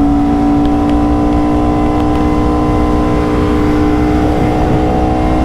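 Aprilia RSV4's V4 engine running at a steady engine speed, holding one even pitch, with low rumbling wind noise underneath.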